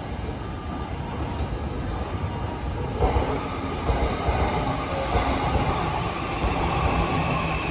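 Electric commuter train moving through the station: a steady rumble of wheels and running gear that grows louder about three seconds in, with faint steady motor whine above it.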